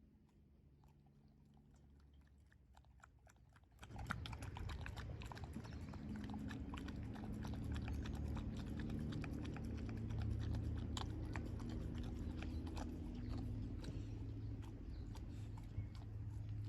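Staffordshire Bull Terrier chewing and crunching a raw meat feed, a rapid stream of wet mouth clicks and crunches. It is faint at first and becomes much louder about four seconds in.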